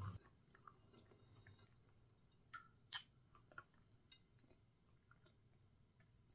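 Faint chewing of a soft, crumbly cookie, with a few scattered small clicks, the sharpest about three seconds in.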